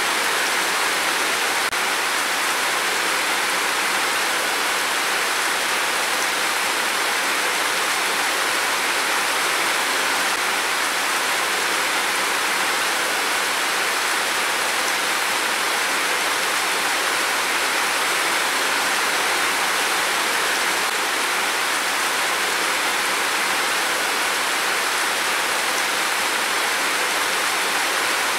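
Heavy rain pouring down steadily as a dense, even hiss, with no thunder.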